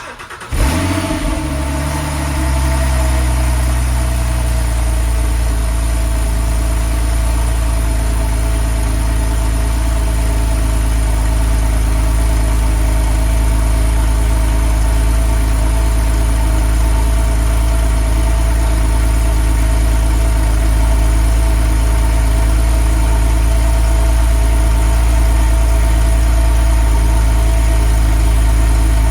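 Porsche 997.2 Targa 4S 3.8-litre flat-six cold start: the starter cranks briefly, the engine catches with a short flare in the first second, then settles into a steady cold idle.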